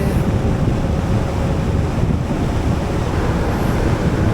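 Steady wind buffeting the microphone of a riding motor scooter, a Yamaha Majesty, with its engine and road noise underneath. The last sung note of a song trails off at the very start.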